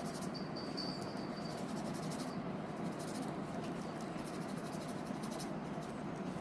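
Soft, steady brushing of a paintbrush laying paint on paper, with a faint thin high tone in the first second or so.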